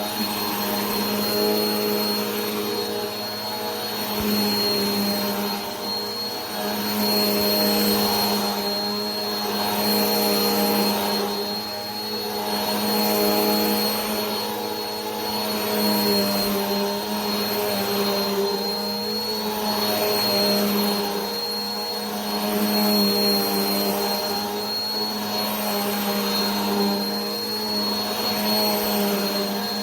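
Vacuum cleaner running steadily: a continuous motor hum with a thin high whine on top, its loudness gently swelling and easing about every two seconds.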